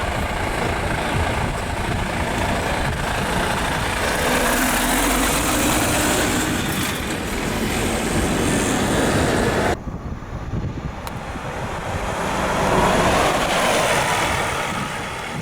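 Mercedes-Benz Actros tractor unit setting off, heard from the cab: a steady rush of engine and road noise. The noise drops suddenly about ten seconds in, then swells again.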